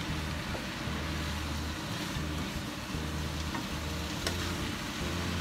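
Yakisoba noodles and vegetables sizzling as they are stir-fried in a pan, with a few light clicks of the stirring utensil against the pan over a steady low hum.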